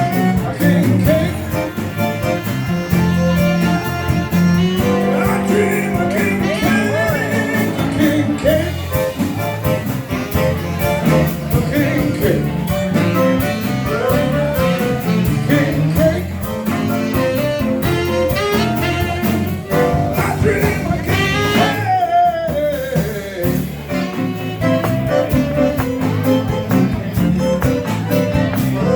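A zydeco band playing, with singing over the instruments.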